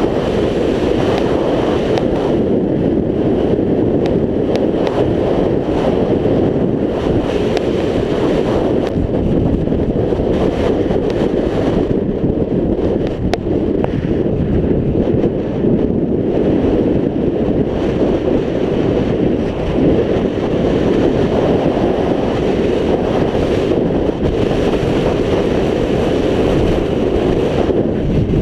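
Loud, steady wind noise buffeting the microphone of a camera on a moving scooter. It runs without a break and without speech.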